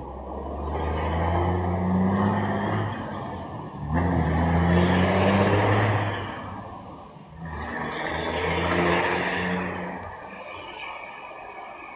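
Unmuffled truck engine revved three times, each rev climbing in pitch, holding briefly, then falling back toward idle.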